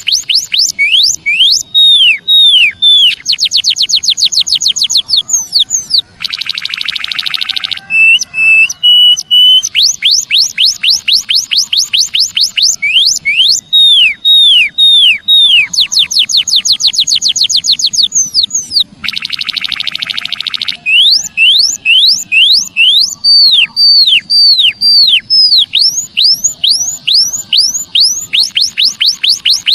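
Emprit kaji bird-call lure recording: rapid runs of clear, high whistles sweeping down in pitch, about five or six a second. Twice they break into a harsh buzzing rattle lasting about a second and a half. The same phrase repeats about every thirteen seconds, as a looped track.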